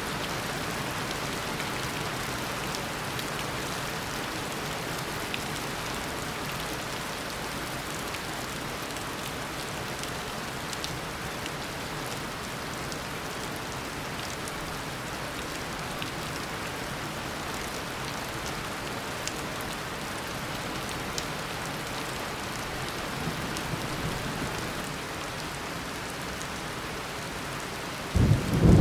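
Tropical rainstorm: a steady downpour hissing on the ground, with scattered individual drops ticking. A faint low rumble swells briefly, then a loud clap of thunder breaks in right at the end.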